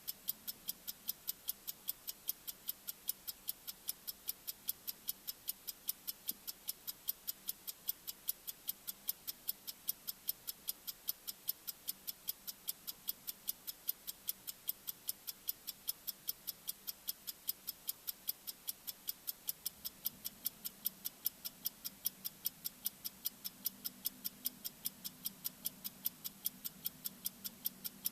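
Sharp, rapid tik-tik ticking of a bomb-timer sound effect, an even click repeated several times a second, over a faint low hum that swells slightly about twenty seconds in.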